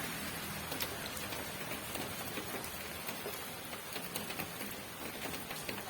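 Steady rain falling, with many separate drops ticking and pattering on a hard surface.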